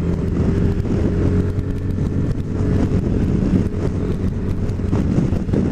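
Yamaha Majesty 400 maxi-scooter's 395cc liquid-cooled four-stroke engine running steadily under way, heard from the rider's seat with rushing air. Wind noise on the microphone grows rougher towards the end.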